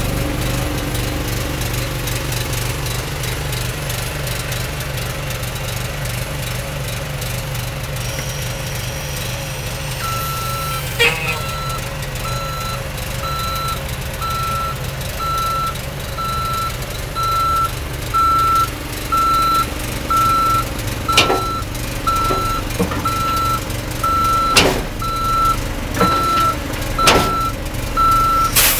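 Diesel semi truck running while backing up, its reverse alarm beeping at a steady pitch about once a second from about ten seconds in. Several sharp clunks sound in the second half.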